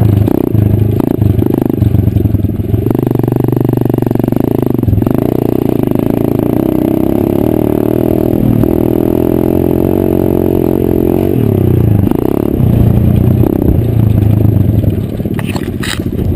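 Pit bike engine running under riding throttle, its pitch rising and dropping several times as it revs and eases off.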